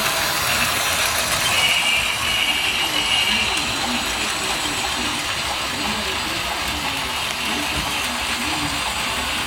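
Toy train running on its track: a steady mechanical clatter of small wheels and gearing, with a brief high whine a couple of seconds in.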